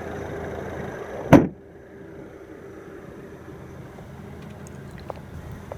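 Range Rover Evoque's 2.0-litre turbocharged four-cylinder engine idling, then switched off about a second and a half in with a short sharp thump. A quieter steady hum stays behind.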